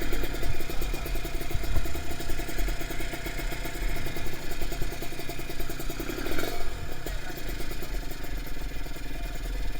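Kawasaki Ninja 150 RR two-stroke engine running steadily near idle, with a rapid, even firing beat.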